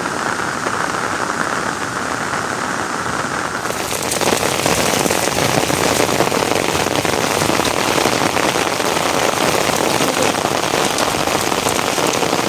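Steady rain falling, an even hiss that turns louder and brighter about four seconds in.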